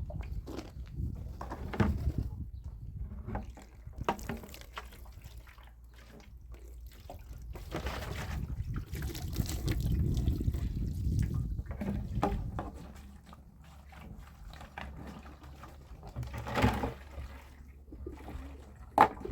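Water running and splashing, swelling in the middle, with scattered knocks and clatter.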